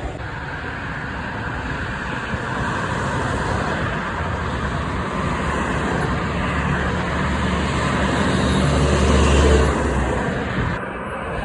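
Road traffic, with a motor vehicle's low engine rumble growing louder and passing, loudest about nine or ten seconds in, then falling away.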